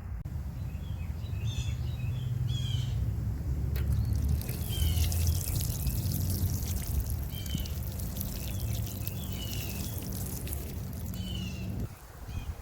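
Birds chirping in short repeated calls over a steady low rumble, with a stretch of hissing noise in the middle. The rumble and chirps cut off sharply near the end.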